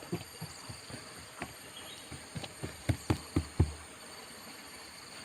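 Scattered light knocks and taps from handling tools and materials, with a cluster of louder knocks about three seconds in. Insects drone steadily and high-pitched in the background.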